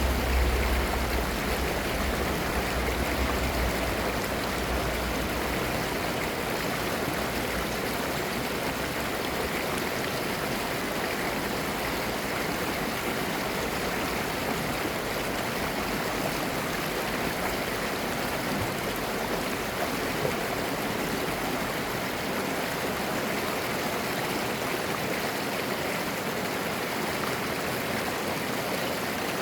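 Clear valley stream babbling steadily over rocks. A deep low rumble underneath dies away within the first few seconds.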